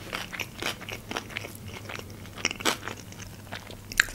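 A person chewing crunchy food close to the microphone: an uneven string of sharp crunches and mouth clicks.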